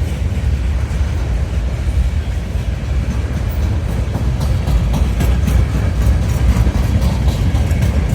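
Freight train rolling past, a steady heavy low rumble of wheels on rail, with clicking from the wheels over the rail joints starting about halfway through.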